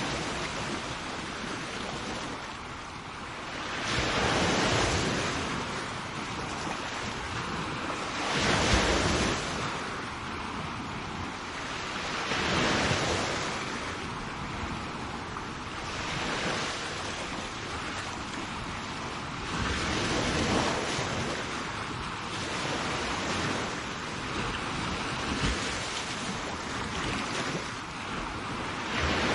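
Sea waves breaking and washing onto a shore, the surf swelling and falling back every few seconds, with some wind on the microphone.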